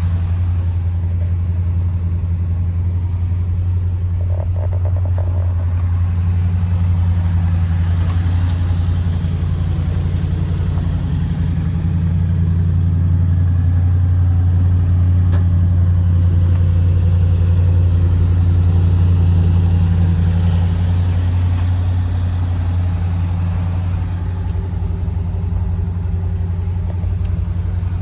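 1977 Ford F150 pickup's engine idling steadily, with a continuous low drone.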